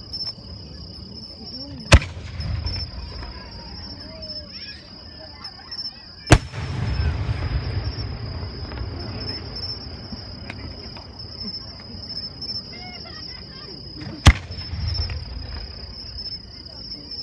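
Aerial fireworks shells bursting: three loud sharp bangs, about two, six and fourteen seconds in, each trailing off in a low rumble. Insects chirp steadily in a high band throughout.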